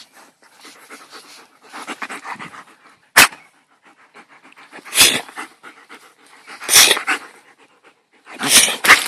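Alaskan Malamute panting with quick breaths close by, broken by loud short breathy bursts about every two seconds.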